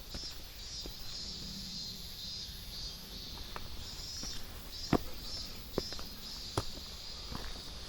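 Footsteps on a hiking trail, a step about every second, over insects chirping in a steady high pulsing pattern.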